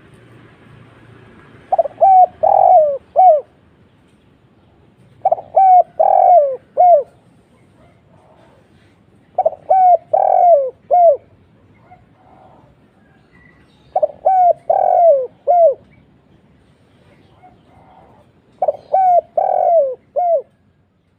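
Spotted dove (tekukur) cooing: five phrases of about four falling coos each, every phrase about a second and a half long and repeated roughly every four seconds.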